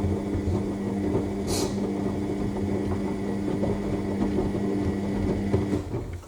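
AEG L7FE7461BI front-loading washing machine in the main wash of a Cottons 60 cycle: the drum motor runs with a steady hum while the wet laundry tumbles and sloshes in the drum. The motor stops near the end and the drum comes to rest.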